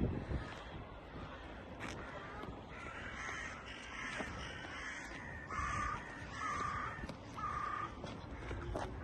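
A bird calling repeatedly: about six short calls, each under half a second, starting about three seconds in, over a low steady background.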